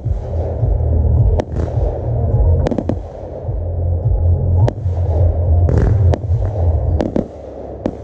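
Aerial firework shells bursting: about ten sharp bangs at uneven intervals, some in quick pairs, over a steady low rumble.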